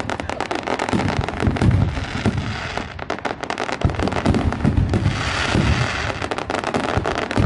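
A dense barrage of aerial fireworks bursting overhead: many sharp crackles and pops overlap one another over low bangs, with no pause.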